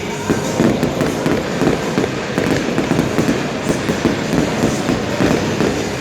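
Fireworks display going off, with a dense, rapid run of overlapping bangs and crackling bursts.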